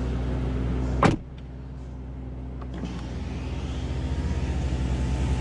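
Mercedes-Benz S65 AMG's twin-turbo V12 idling, then switched off about a second in with a short clunk. Afterwards a faint, evenly pulsing electric motor whir slowly grows louder.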